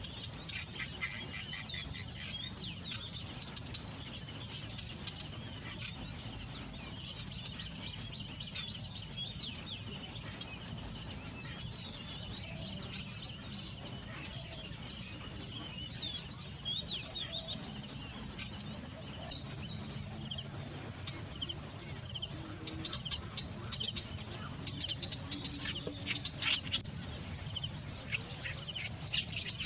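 Many small birds chirping and calling in quick, overlapping notes, with short whistles that rise and fall, and a steady low background rumble underneath. The chirping gets busier and louder in the second half.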